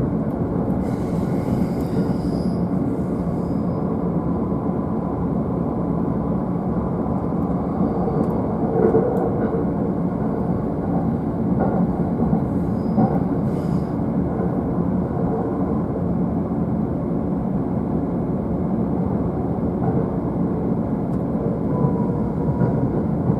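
JR East E531 series electric train running at speed, heard from an upper-deck seat of a bilevel car: a steady rumble of wheels on rail, with brief faint high hisses about a second in and around thirteen seconds.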